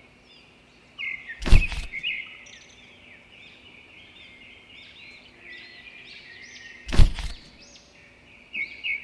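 Birds chirping, many short calls, with two loud thuds, one about a second and a half in and one near seven seconds.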